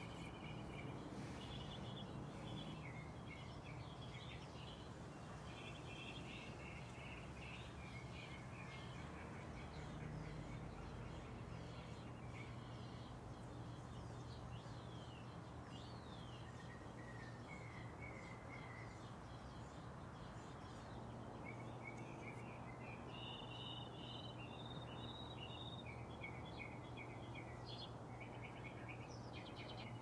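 Small songbirds chirping and trilling in repeated short runs of high notes, faint over a steady background hiss and a low hum.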